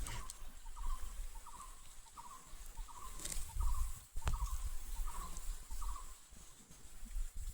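A bird calling over and over, a quick chattering cluster of notes repeated about eight times, roughly every two-thirds of a second, then stopping. Low rumble underneath and one sharp click about four seconds in.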